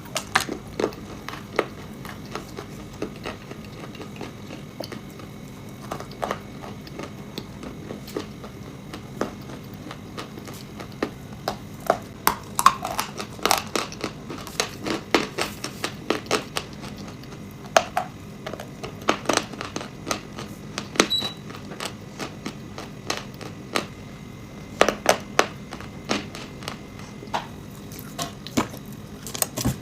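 Close-miked crunching and biting of chalk, clay and nuts: irregular sharp crunches and crackles, coming thickest in the middle and again near the end.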